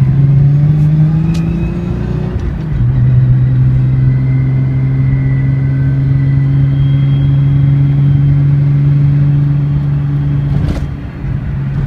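Nissan 300ZX Twin Turbo's VG30DETT V6 engine pulling on the road, rising in pitch, then dropping at a gear change about two and a half seconds in. It holds a steady drone until a short break and dip near the end.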